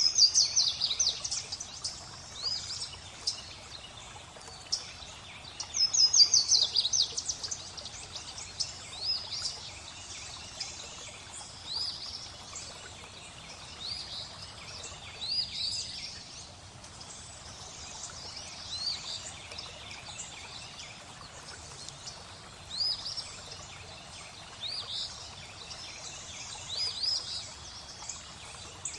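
Birds chirping over steady flowing water: short, high, rising chirps every second or two, with a quick run of chirps about six seconds in.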